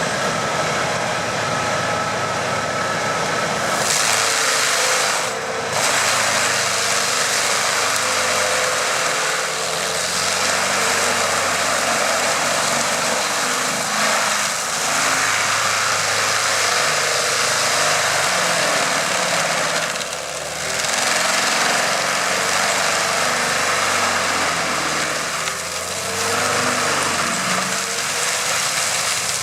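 Stump grinder running under load: a loud, steady grinding noise over the machine's engine, easing off briefly a couple of times.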